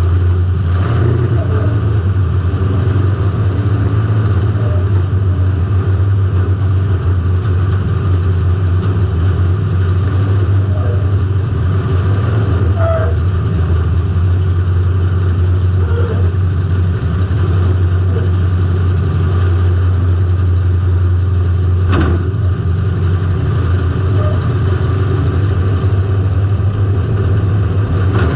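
Car engine running steadily and loud, heard from a camera mounted on the car, with one sharp knock about two-thirds of the way through.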